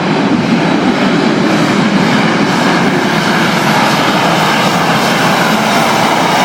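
Jet turbine engine of a pulling tractor running loud and steady, an even rush of jet noise with no breaks.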